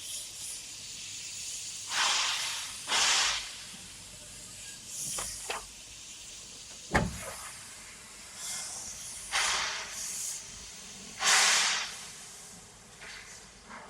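Several short bursts of hissing, each lasting about half a second to a second, with a single sharp knock about seven seconds in.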